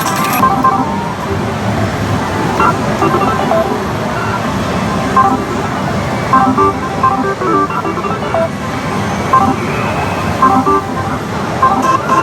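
Din of a pachislot parlour: a steady dense roar with many short electronic beeps and jingles from the slot machines scattered through it.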